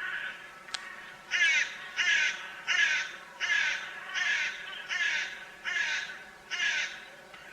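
A bird giving eight harsh calls in an even series, a little under a second apart, with a single sharp click just before they begin.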